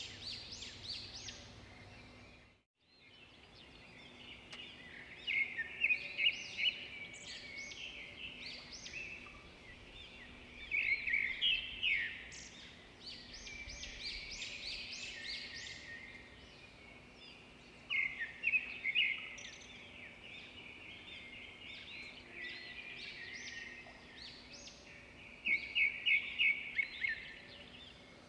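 Swiftlets twittering: a dense chatter of high chirps, broken by louder bursts of fast trills about five, eleven, eighteen and twenty-six seconds in, over a faint steady hum. The sound drops out briefly about three seconds in.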